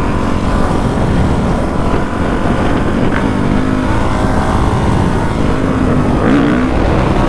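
450 dirt bike's single-cylinder four-stroke engine running while riding at speed, with dense low rumble. The engine pitch rises and falls a couple of times as the throttle changes, around the middle and near the end.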